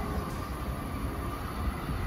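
Electric commuter train on the tracks, a steady low rumble of wheels on rail.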